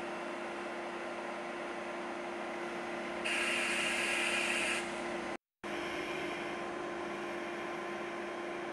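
ICE high-speed train standing at the platform, its electrical equipment giving a steady hum with a few fixed tones. About three seconds in, a louder hiss comes in for about a second and a half, and shortly after it the sound breaks off for a moment at an edit.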